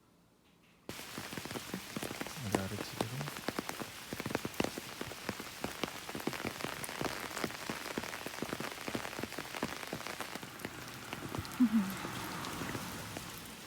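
Rain falling, with a dense, irregular patter of drops striking a surface. It starts abruptly about a second in.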